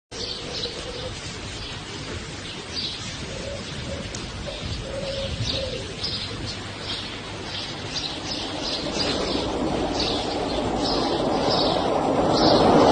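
Birds chirping in a steady run of short high calls, about two a second. From about two-thirds of the way in, a broad rushing noise swells up underneath and grows louder.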